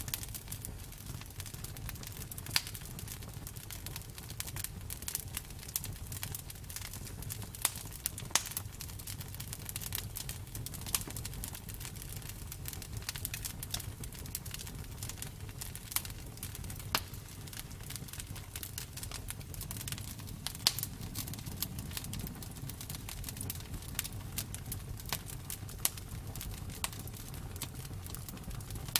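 Bonfire burning: a steady low rumble of flames with irregular sharp crackles and pops of burning wood.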